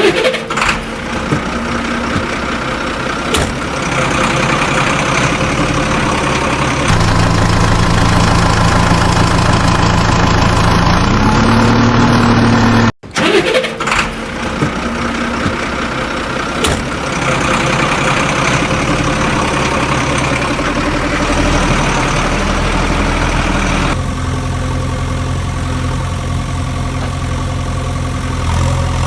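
Vehicle engines running steadily, with one briefly rising in pitch as it revs, in several clips cut together.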